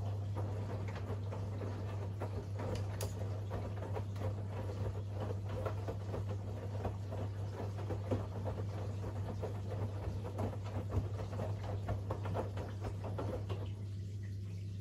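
Siemens iQ700 WG56B2090 front-loading washing machine turning its drum in the main-wash rhythm: wet laundry and water tumbling with a patter of small knocks, stopping shortly before the end, over a steady low hum.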